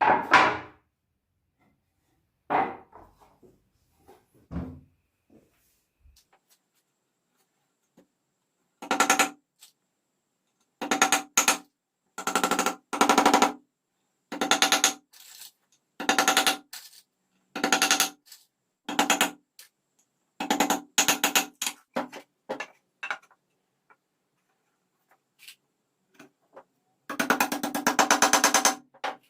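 A few single mechanical knocks, then repeated bursts of very rapid, even clicking, each under a second long, with a longer two-second run near the end: the restored 1960s manual machine being worked.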